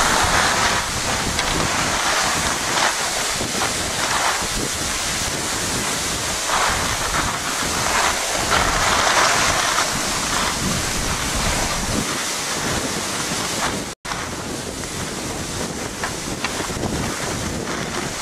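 Wind buffeting the camera microphone: a steady rushing noise that swells and eases, with a brief cut about fourteen seconds in.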